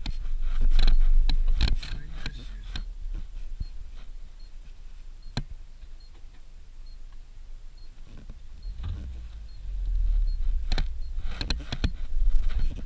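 Suzuki Jimny driving over a rough dirt road: a low rumble with scattered knocks and rattles from the body and cabin. The rumble swells in the first two seconds and again near the end.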